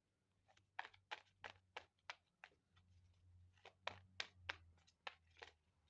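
A quick, irregular run of light clicks, about three a second, over a faint low hum.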